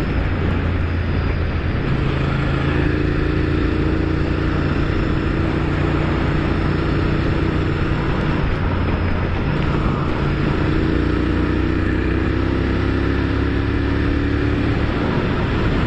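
Honda Firestorm's 996 cc V-twin engine running steadily while riding, under a dense rush of wind and road noise; the engine pitch drifts slowly up and down.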